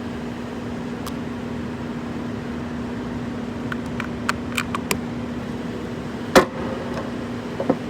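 A steady mechanical hum holding one low tone, with a few small clicks near the middle and a sharper knock about six seconds in.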